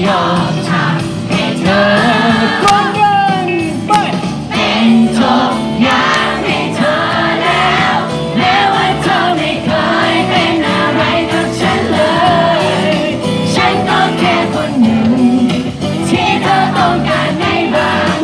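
A Thai pop ballad playing, with a voice singing over the band accompaniment.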